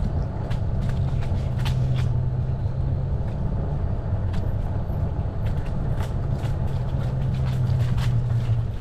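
Steady low rumble of riding a fat-tyre e-bike: tyre and wind noise, with scattered light clicks.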